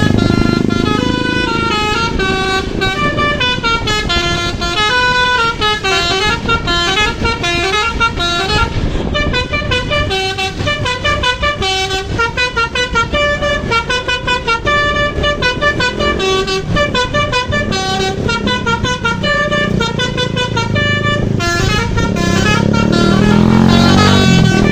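Basuri (telolet) musical air horn on a bus playing a quick tune of stepped notes, over engine and road rumble.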